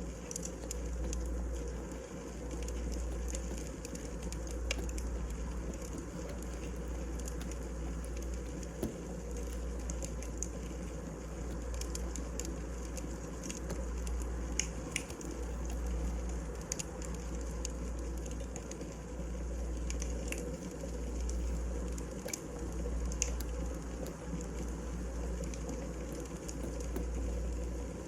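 Wood fire crackling, with frequent small sharp pops and snaps over a steady hiss and a low rumble that swells and fades.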